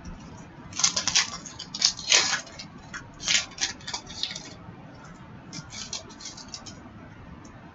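2015-16 Upper Deck Series 2 hockey cards being handled between packs: short bursts of rustling, sliding and light clicking as the cards are shuffled and set down, dying away toward the end.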